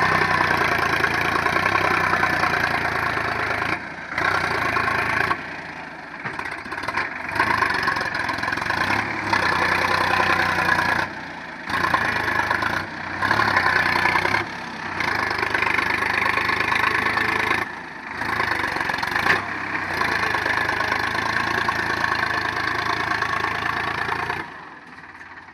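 Sonalika 745 DI tractor's diesel engine running steadily while pulling a loaded trolley, with several sudden brief drop-outs in the sound.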